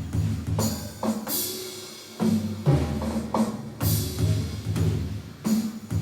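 Rhythmic drumming on a timpani-sound percussion set: low, pitched drum tones in a quick repeating pattern of double strokes, with a few louder accented hits.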